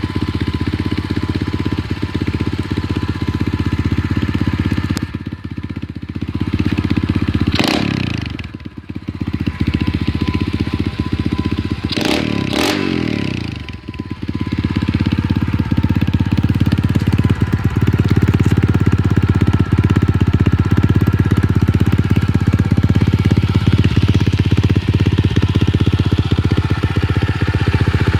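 2015 SSR125 pit bike's 125cc four-stroke single-cylinder engine running. Its pitch sweeps and it quietens twice, about 8 and 13 seconds in, then it settles to a steady, louder run.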